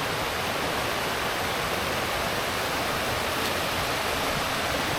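Small river's water rushing steadily over rocks.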